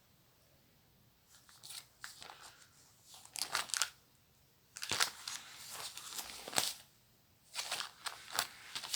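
Paper package wrapping being torn open and crinkled by hand, in irregular bursts of crackling and rustling after a short quiet start.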